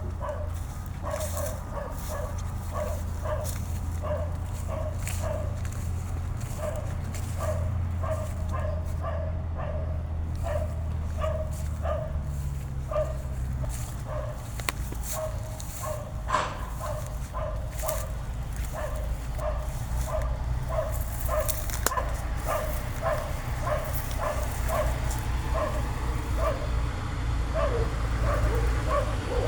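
A dog barking over and over at an even pace, about two barks a second, over a steady low rumble.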